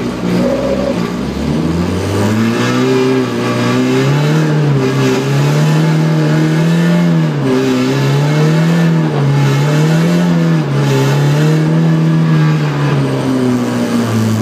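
Car engine heard from inside the cabin, revving up and easing off over and over, its pitch rising and falling every second or two as the car drives along at moderate speed.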